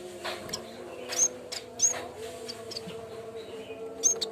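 Yellow-bellied warbler (cikrak bambu) calling: short, sharp, high-pitched chirps, a handful spaced irregularly, over a steady low hum.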